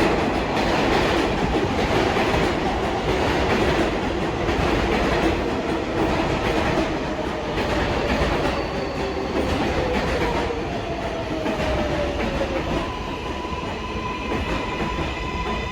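R188 subway train pulling into the station: wheels clattering over rail joints, with a falling whine as it slows. Near the end a steady high-pitched tone sets in as it comes to a stop.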